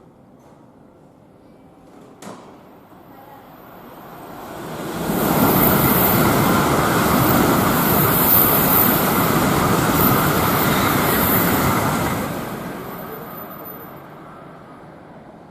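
Tokaido Shinkansen train passing through the station at high speed without stopping: a rushing noise that builds from about three seconds in, stays loud for about seven seconds, then fades away.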